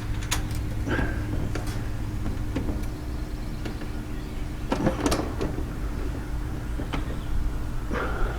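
Electric drill-driver whirring briefly twice, about a second in and near the end, as Phillips-head bolts are driven into a chicken coop's panels. In between, a cluster of knocks and clicks from the parts being handled, over a steady low hum.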